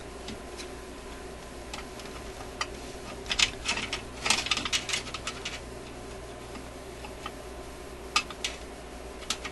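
Small metallic clicks and scrapes of a bent screwdriver tip working against a stuck screw, scattered and thickest around three to five seconds in.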